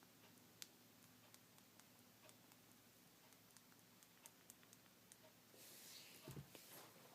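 Near silence with faint scattered ticks and clicks, then a short rustle and a soft low thump about six seconds in.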